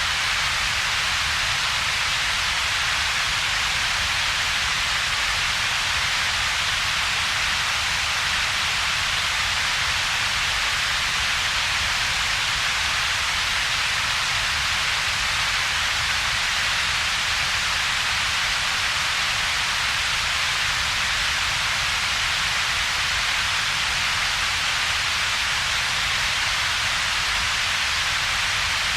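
Steady synthetic double-peaked noise: an even hiss strongest at a few kilohertz, over a weaker low rumble, with a gap between them. It runs unchanging throughout.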